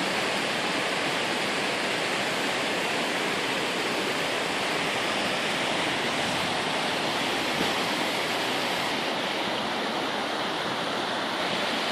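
Waterfall rushing steadily, an even wash of water noise.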